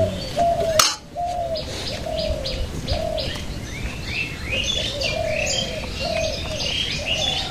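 Birds calling: one bird repeats a short, slightly arched note about twice a second, while small birds chirp higher up from about halfway through. A sharp click sounds just under a second in.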